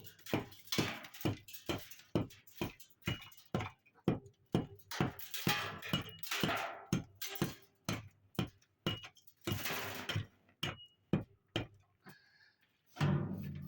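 Repeated knocks and clinks of hard objects being handled, two or three a second, with a few stretches of scraping noise and a heavier thud near the end.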